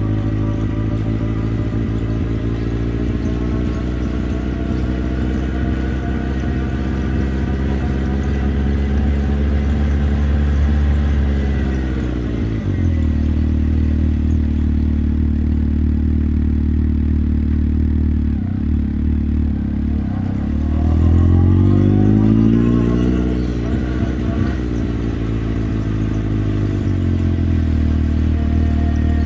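Motorcycle engine running under way, its pitch climbing slowly before dropping off about twelve seconds in. It runs lower for a while, revs up again around twenty seconds in, then eases back to a steady run.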